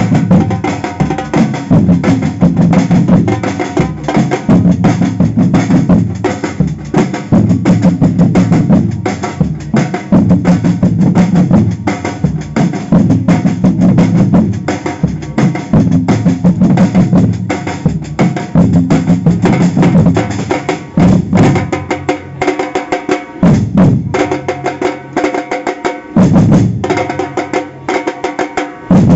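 Samba percussion band playing a fast, dense drum rhythm with deep bass drums under higher drums. Over the last few seconds the bass drums drop out twice for a moment while the higher drums carry on, then come back in.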